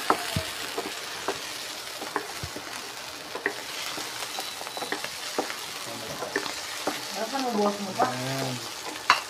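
Mushrooms, red onion and garlic sizzling in oil in a nonstick frying pan, stirred with a wooden spoon that taps and scrapes against the pan many times.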